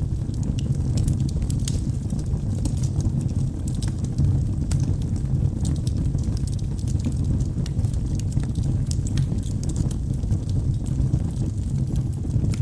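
Wood logs burning in a fireplace: a steady low rumble of the fire with scattered sharp crackles and pops.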